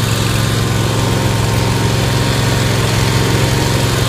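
Scag Tiger Cat II zero-turn mower's engine running steadily after its cold start out of winter storage.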